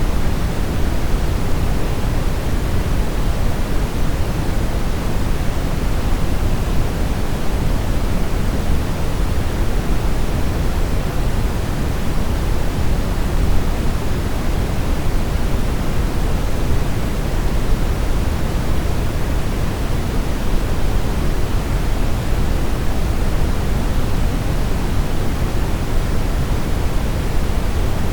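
Steady brown noise: a deep, even rushing hiss, loudest in the lows and falling off toward the highs, with no changes.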